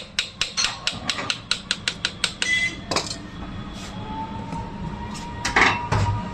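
Hammer tapping quickly on the metal parts of an electric motor being reassembled after a shaft replacement. The taps come about five a second for two and a half seconds, then a single knock, and two heavier strikes near the end.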